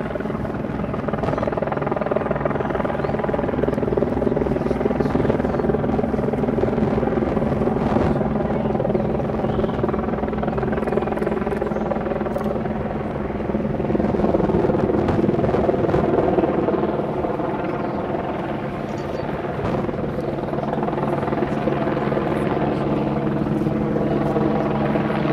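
Steady, loud engine drone with a fast low throbbing, continuing without a break.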